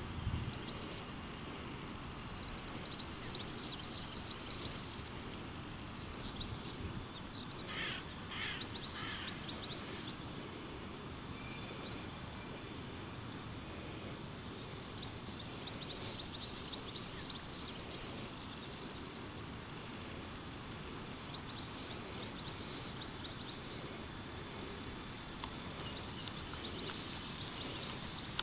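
Small birds chirping in quick bursts every few seconds over a steady outdoor city background noise.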